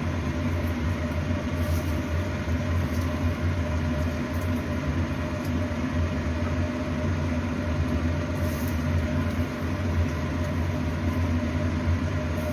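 Steady low mechanical hum, an unchanging drone.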